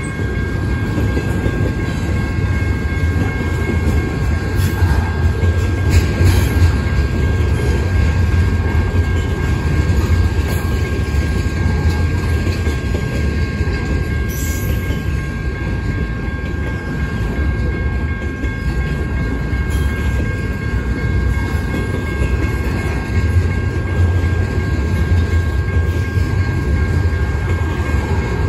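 Double-stack intermodal container cars rolling past close by: a steady heavy rumble of steel wheels on the rails, with clickety-clack and a few sharp clanks.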